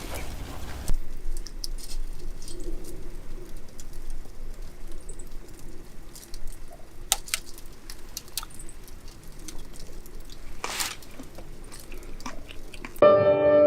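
Campfire crackling, with scattered sharp pops at irregular intervals over a faint low background. A sustained music chord comes in near the end.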